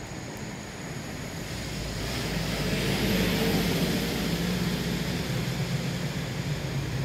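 A passing vehicle's engine noise, a low hum with a rushing sound, growing louder over the first few seconds and staying loud.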